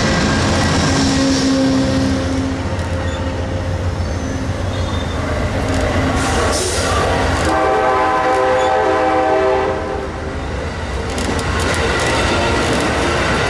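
Train rumbling steadily as it passes. About halfway through, a chord of steady tones sounds for roughly two seconds, like a locomotive horn.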